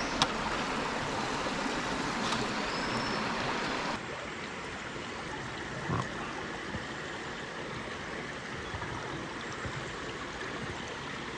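Mountain stream water flowing and trickling steadily, a little quieter from about four seconds in, with one soft knock about six seconds in.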